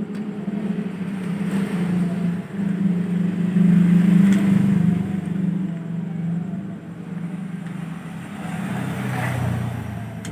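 A motor running with a steady low hum, loudest a few seconds in, that drops lower in pitch near the end.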